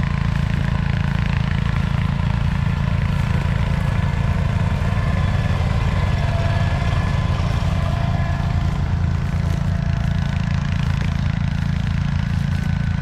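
International Cub Cadet 1450 garden tractor's single-cylinder Kohler engine running steadily while it pulls a Brindley disc harrow through the field.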